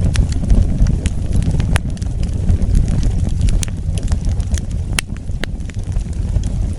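Wood fire burning: a steady low rumble under irregular sharp crackles and pops, with a few louder snaps scattered through.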